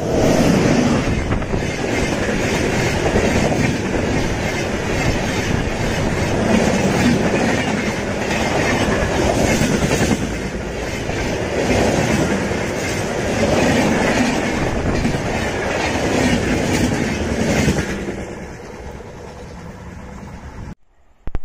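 Express train passing close by, its wheels clattering over the rail joints in a fast clickety-clack, swelling and easing every few seconds as each coach's bogies go past. The noise fades near the end.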